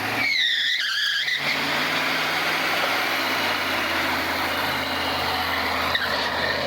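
Ford E-350 ramp truck with a 7.3 IDI V8 diesel laying patch: the rear tires squeal with a wavering pitch for about a second and a half, then the diesel runs on steadily with loud tire and road noise.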